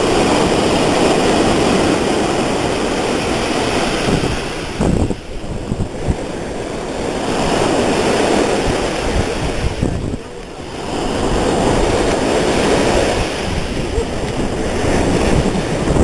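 Sea waves washing onto the shore, swelling and easing in surges about every five seconds.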